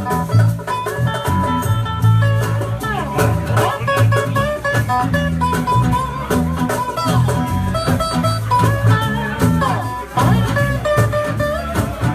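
Live band playing, led by a guitar whose melody bends up and down over a steady bass line and drums.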